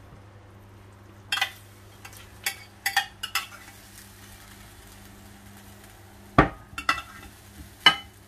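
Serving utensils clinking and knocking against a baking tray and plate while chicken wings are moved onto the plate: a scatter of sharp clinks, the loudest a heavier knock about six seconds in, over a steady low hum.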